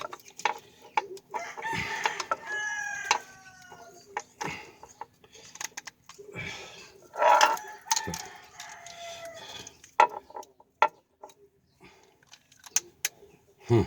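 A rooster crowing twice, each crow a long call that falls in pitch, with scattered sharp clicks and knocks of metal tools.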